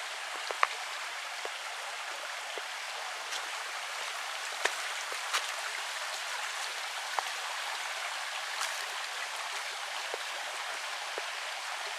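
Creek water running steadily over rock, with a few faint clicks scattered through it.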